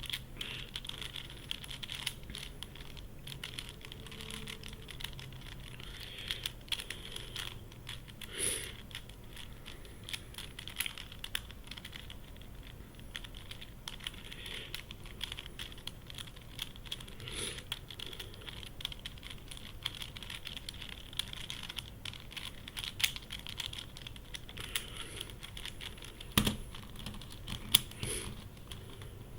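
Plastic pieces of a Yuxin Corner Helicopter 2x2 puzzle clicking and rattling as it is turned quickly by hand, in an irregular run of small clacks, with a few louder clacks near the end.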